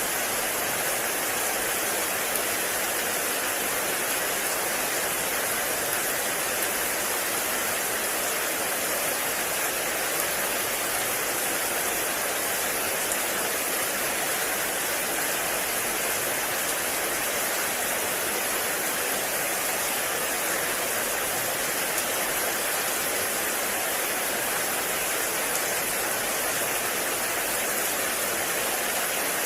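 Heavy rain falling steadily in a forest, an even, unbroken hiss of water.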